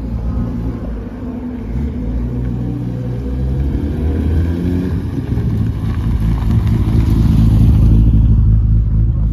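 A car engine running close by, its sound building to a peak about two thirds of the way through and then easing slightly.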